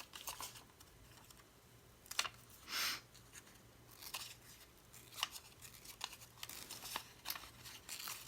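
Paper being torn and handled: a short rip about three seconds in, among light rustles and small clicks.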